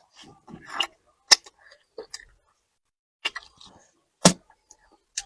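Close-miked eating sounds: a person chewing and handling food, with two sharp clicks, one about a second in and a louder one about four seconds in.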